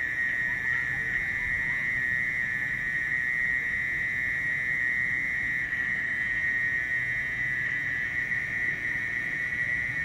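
Mole cricket (orong-orong) singing a long, unbroken shrill trill at one steady high pitch, with a faint low rumble beneath.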